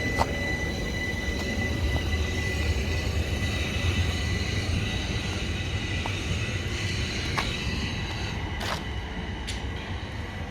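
Southern Class 377 Electrostar electric multiple unit on the move, with a steady electric motor whine over low rumble and a few sharp clicks. The sound eases off in the second half.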